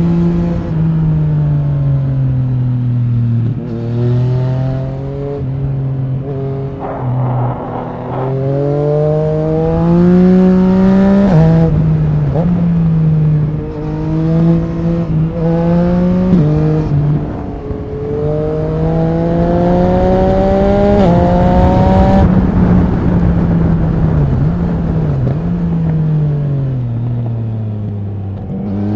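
Yamaha MT-09 SP three-cylinder engine through an Akrapovic Racing exhaust, accelerating hard through the gears: the engine note climbs and drops sharply at each upshift, about five times, with stretches where it falls away as the throttle is rolled off.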